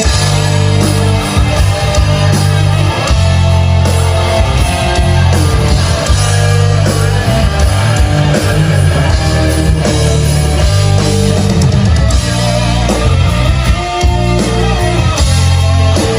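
A live rock band plays an instrumental passage with no vocals: electric guitar over bass guitar and drums.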